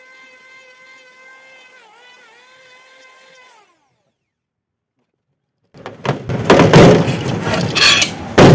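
Faint steady whine of an electric hand tool's motor, dipping briefly in pitch about two seconds in, then winding down and cutting off. After a short silence, loud rough rustling and knocking noise starts and is the loudest thing heard.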